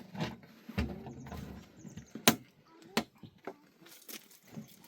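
A few sharp knocks at irregular intervals, the loudest a little over two seconds in, with faint low sounds in between.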